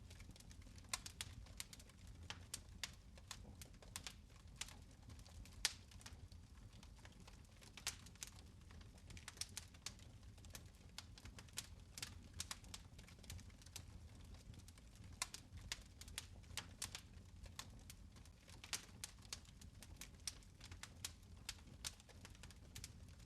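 Fireplace fire crackling faintly: irregular sharp snaps and pops, several a second, over a low steady rumble.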